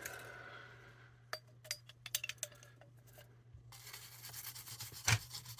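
A few light clicks and clinks, then scratchy scrubbing on a circuit board to clean off solder flux, starting about two-thirds of the way in, with one sharp knock near the end.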